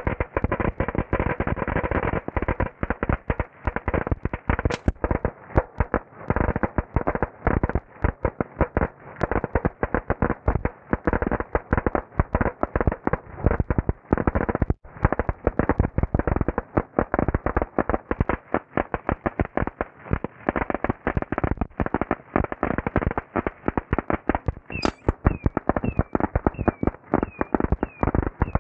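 Fireworks going off on a trailer: a long run of firecrackers banging in rapid, continuous crackling succession, with a momentary break about halfway. In the last few seconds, short falling high squeals repeat about twice a second over the bangs.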